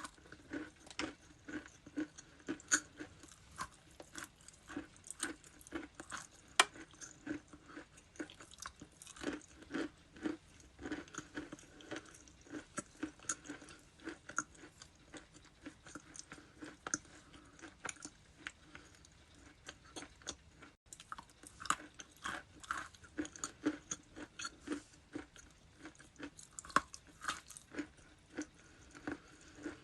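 Ice being bitten and chewed close to the microphone: a steady run of sharp, crisp crunches, roughly two a second.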